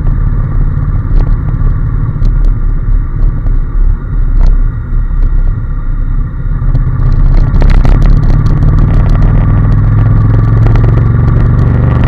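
Honda NC750S parallel-twin engine running under way, with a low, steady rumble of wind and road noise. About seven seconds in, the engine note grows louder and steadier as the bike pulls harder.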